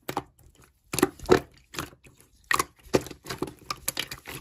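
Slime being handled, giving an irregular series of sharp crackling clicks and pops.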